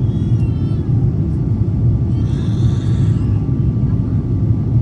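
Steady low cabin rumble of an Airbus A350-1000 climbing out, from its Rolls-Royce Trent XWB engines and the airflow over the fuselage. A short, faint, higher hiss rises over it about halfway through.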